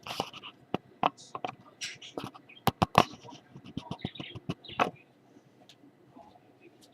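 Small pet bird chirping while knocking at its toy bell: a quick, uneven string of sharp clicks and clinks for about five seconds, then only a few chirps.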